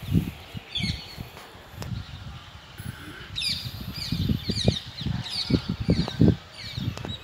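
Birds chirping: short downward-sliding calls, repeated several times and bunched in the middle, over irregular low thumps and rumbling.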